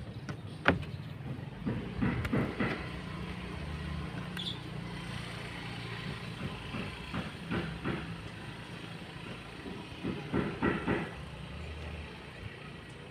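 A steady low mechanical hum, like an engine running, with scattered sharp knocks and clusters of taps, the loudest knock less than a second in.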